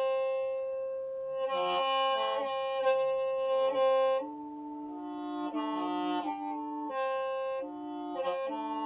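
Hmong qeej, a bamboo free-reed mouth organ, being played: several reed pipes sound together as held chords, with the notes shifting every second or so. It swells louder and brighter a couple of seconds in and again past the middle.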